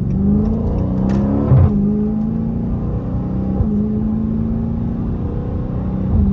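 Dodge Scat Pack's 392 HEMI V8 accelerating hard, heard from inside the cabin. The engine note climbs, then falls as the transmission upshifts, about a second and a half and three and a half seconds in, before holding steady at cruising speed.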